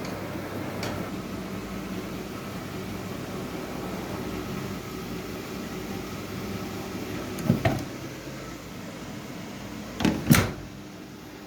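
Washing machine running with a steady hum. Two pairs of sharp knocks come about two and a half seconds apart near the end, the second pair louder.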